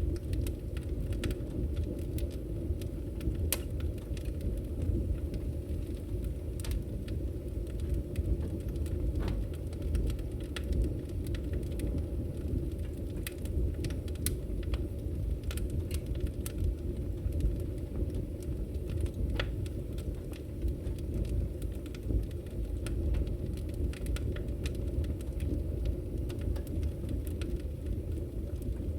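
Wood fire crackling: a steady low rumble of burning logs with frequent, irregular sharp crackles and pops.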